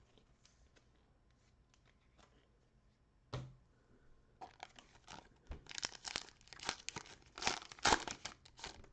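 Cellophane wrapper of a trading-card pack being torn and crinkled: one sharp rip about three seconds in, then a dense run of crinkling.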